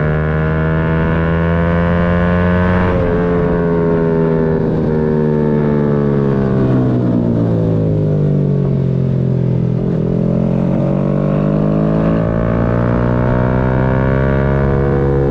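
Yamaha MT-125's single-cylinder four-stroke engine under way: the revs climb for about three seconds, drop suddenly at a gear change, sink slowly as the bike slows, then climb again through the last few seconds as it accelerates.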